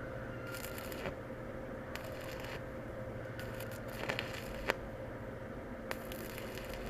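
Mini single-board stick welder arc-welding steel in short spells: several bursts of crackling arc noise, each under about a second, with a few sharp knocks between them, over a steady hum.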